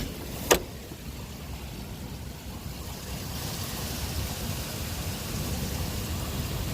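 Rain falling steadily during a thunderstorm, with a low rumble that swells from about halfway through. A sharp click sounds about half a second in.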